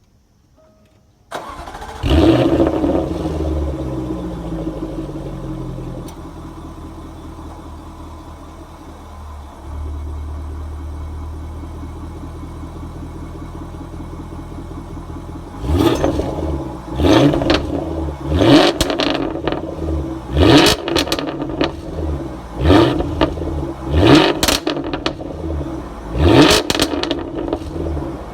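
Jaguar F-Type R's supercharged 5.0-litre V8 starting about a second in with a loud flare, then settling to a steady idle. From about halfway on it is blipped in about seven short, sharp free revs, each rising and falling back to idle.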